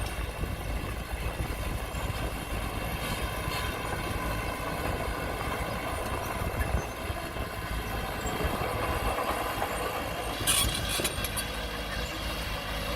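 Diesel engine of heavy earthmoving machinery running steadily, with a short high-pitched noise about ten and a half seconds in.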